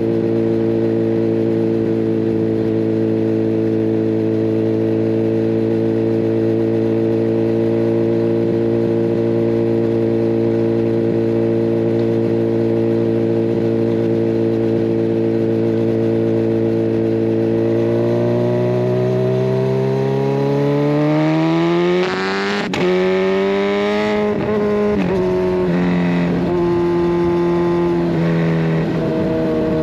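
Kawasaki Ninja 1000SX inline-four engine heard through a decat pipe and a Scorpion Red Power exhaust, running at a steady speed. About 18 s in it accelerates, rising in pitch. A sharp click and a short drop in revs come about 22 s in, followed by quick shifts up through the gears near the end.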